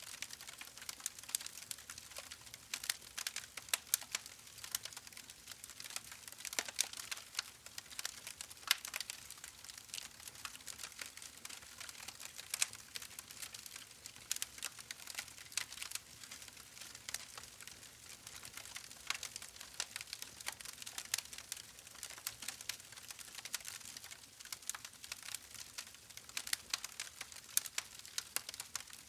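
Wood fire crackling steadily in a fireplace: many irregular sharp pops and snaps over a soft hiss.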